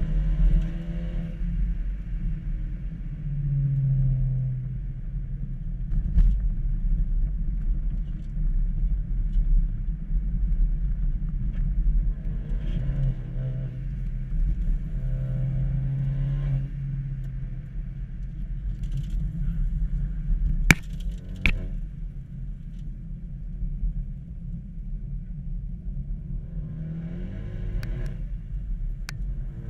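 Ford Focus ST driven hard, its engine note climbing and dropping over and over with a steady low rumble underneath. Two sharp clicks come a little past two-thirds of the way in.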